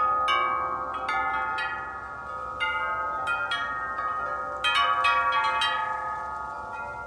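Wind chimes blown by gusting wind, tubes striking again and again at irregular moments and ringing on in overlapping tones, with a busier cluster of strikes a little after halfway.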